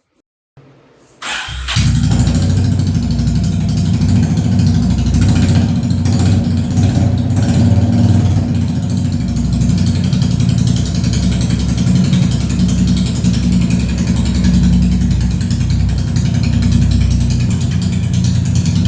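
Honda CB350RS's 348 cc air-cooled single-cylinder engine cranked briefly and catching about a second and a half in, then running steadily and loudly on its first start after a half engine overhaul.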